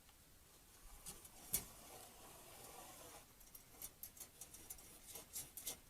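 Faint scraping and tapping of a metal poker being run down a propane refrigerator's flue tube to clear out soot and debris. There is a sharper knock about a second and a half in and a run of light clicks near the end.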